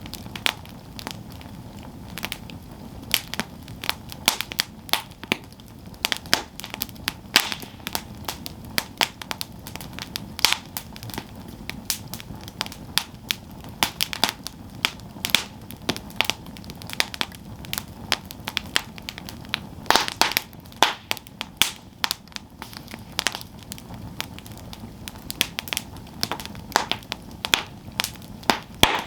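Campfire burning with irregular sharp crackles and pops from the burning wood over a low steady hiss.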